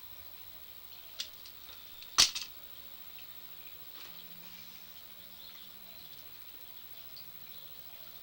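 A light click, then about a second later a single loud, sharp knock followed by a couple of smaller knocks, like a tool or part being knocked or set down.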